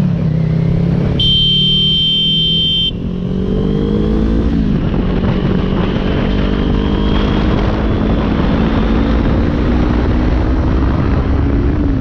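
Motorcycle engine accelerating, its pitch climbing, then dropping at a gear change about four and a half seconds in before climbing again. Near the start a vehicle horn sounds once for about a second and a half.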